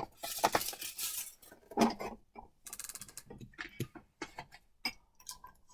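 Dishes being handled: scattered light clinks, knocks and rustles.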